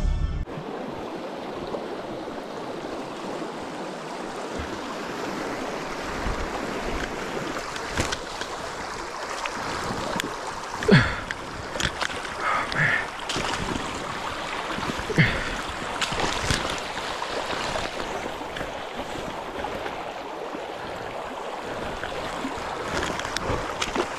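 Shallow river water running over stones, heard from close by while wading, with a few short louder sounds about halfway through.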